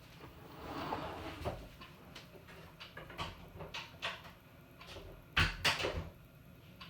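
Panasonic NA-FA100H9 top-loading washing machine at the start of its cycle: a series of mechanical clicks and knocks, with two heavier thumps about five and a half seconds in.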